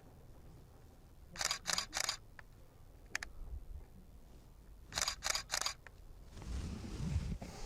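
Camera shutter firing three times in quick succession, twice, a few seconds apart, with a faint double click between. A low rumble rises near the end.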